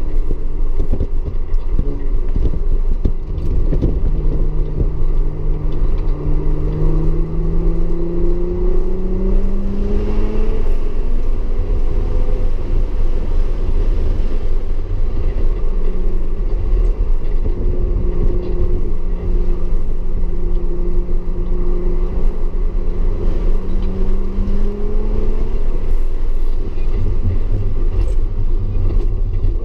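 Audi S4 engine pulling through long, steady climbs in pitch on track, with a drop in revs about halfway through and another a few seconds before the end, where a new climb begins. A heavy, steady rumble runs beneath it.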